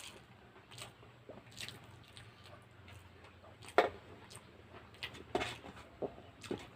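A person eating rice and curry: wet chewing and mouth smacks, a string of irregular short squelchy clicks with one sharper smack a little under four seconds in.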